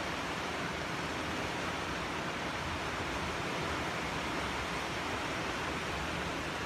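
River rapids, white water rushing steadily.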